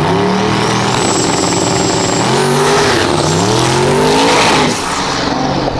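Race car accelerating hard, the engine pitch climbing, dropping back and climbing again through its gear changes. The engine falls away near the end.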